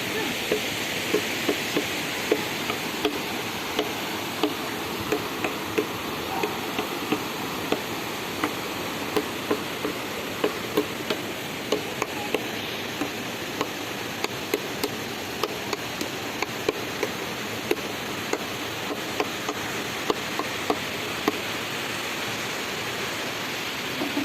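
Steady rush of running water, with a sharp knock about every two-thirds of a second throughout.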